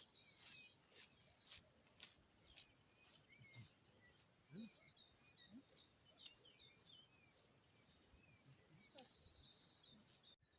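Faint small-bird chirping: short high notes, with a quick run of repeated chirps in the middle, over faint outdoor hiss. A few soft ticks come in the first few seconds.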